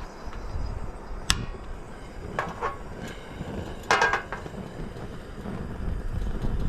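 A few sharp, ringing clinks and knocks, the loudest about four seconds in, over a steady low rumble.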